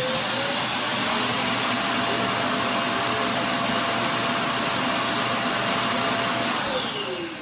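Vacuum motor of an iRobot Roomba Combo i5+ system running at full suction with a high whine. The whine is still rising as the motor finishes spinning up about a second in, holds steady, then falls as the motor winds down near the end.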